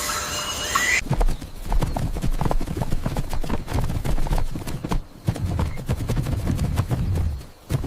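Horse hooves clip-clopping in a quick, irregular run of knocks with dull low thuds. Before them, a steady hiss cuts off abruptly about a second in.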